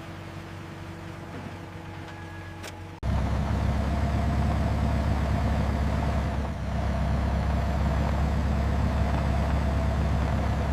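Truck engine running steadily with a low rumble, coming in abruptly about three seconds in after a quieter stretch of faint steady hum.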